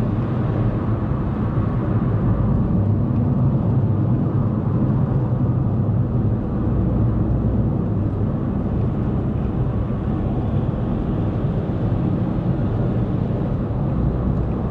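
Steady road and engine noise of a car cruising on a highway, heard from inside the cabin as a continuous low rumble.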